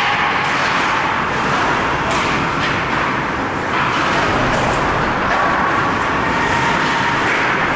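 Steady, loud rink din during an ice hockey game, with a few sharp clacks of sticks or puck scattered through.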